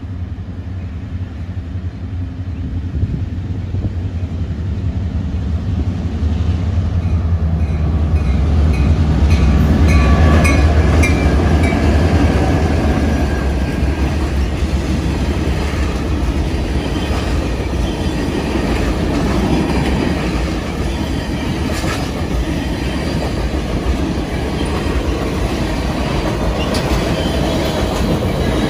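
Passenger train passing close by: the diesel locomotives' low engine drone builds to its loudest about ten seconds in. After that, the passenger cars roll past with a steady rumble and wheels clicking over the rail joints.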